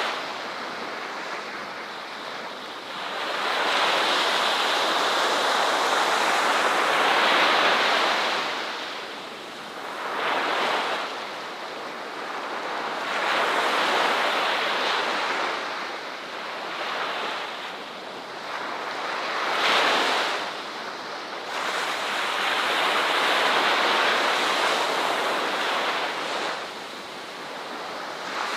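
Ocean waves breaking and washing up the shore, the surf rising and falling in a slow, uneven rhythm of swells every few seconds.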